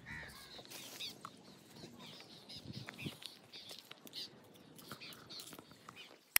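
Faint bird chirps and calls, many short ones scattered through, over a low rural background.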